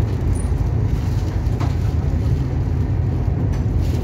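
Steady low rumble of a Shatabdi Express passenger train running at speed, heard from inside the coach.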